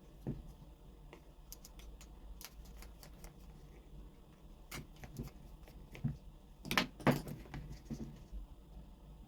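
Scattered light clicks and clinks of small metal parts and tools being handled on a workbench, with a louder cluster of knocks about seven seconds in.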